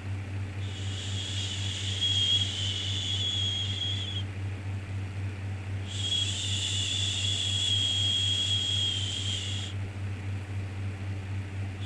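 Shushing 'shhh' sound for soothing a baby, repeated in long strokes of about three and a half seconds with short pauses between, over a steady low hum.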